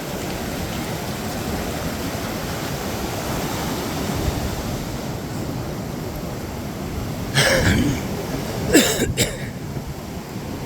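Steady rush of ocean surf with wind on the microphone. Two short, louder, sharp sounds break through about two-thirds and five-sixths of the way in.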